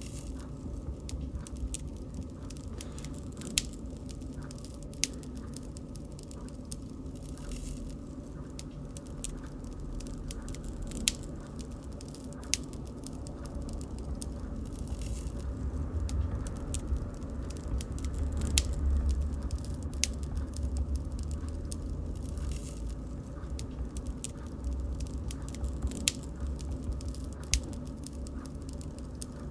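Wood bonfire crackling: scattered sharp pops and snaps over a low, steady rumble of flames, the rumble swelling for a few seconds past the middle.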